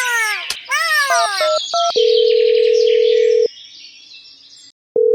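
Cartoon-style whistling tones sliding down in pitch, then a few quick chirps and short beeps. After that a steady single-pitch telephone tone sounds for about a second and a half, and starts again near the end, like a phone calling out before it is answered.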